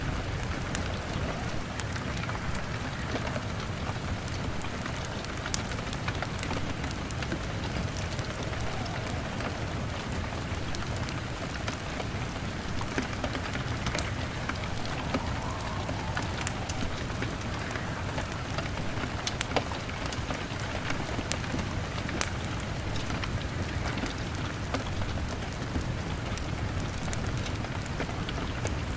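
Steady rain beating on a window, with a low rumble underneath and sharp crackles and pops from a burning log fire scattered throughout.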